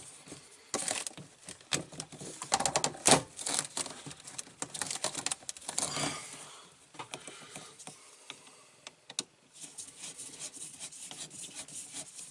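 Hands working plastic drain hoses and plumbing fittings into place: a run of clicks, knocks and rustles with the loudest knock about three seconds in, then quieter rubbing and ticking.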